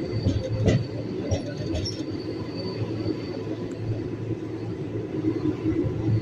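Train running along the rails with a steady rumble and a faint high wheel squeal, and a single sharp knock about a second in.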